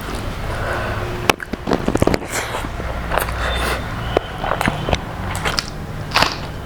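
Close-miked eating of crispy fried food: irregular crunching bites and chewing, starting about a second in, over a steady low hum.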